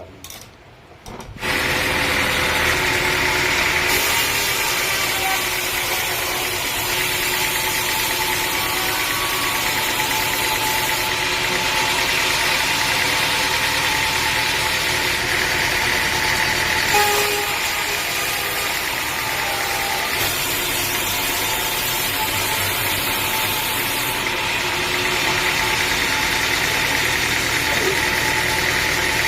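An engine running steadily, which comes in suddenly about a second and a half in.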